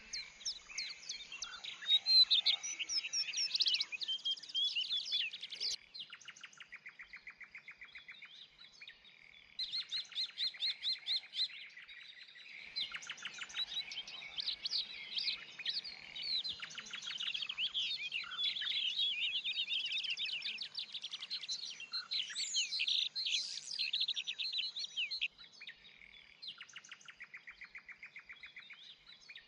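Several songbirds singing and chirping together: quick trills, runs of rapidly repeated notes and high chirps, the mix changing abruptly a couple of times.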